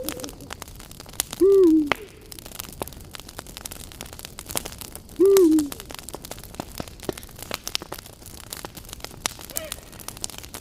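Campfire crackling with frequent small pops and snaps, while an owl hoots twice, about four seconds apart: each hoot is short, rises slightly and then falls, and is much louder than the fire.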